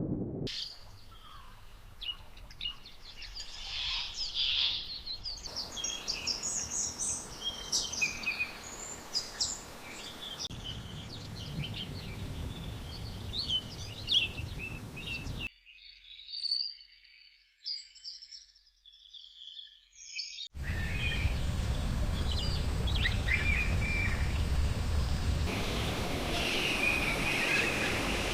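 Wild birds chirping and calling in quick, short notes, in a string of spliced recordings that switch abruptly about every five seconds. In the last part the calls sit over a steady rushing noise.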